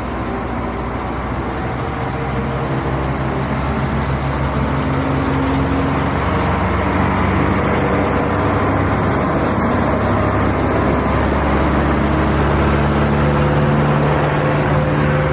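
Bus engine droning steadily under way, with road noise, growing gradually louder.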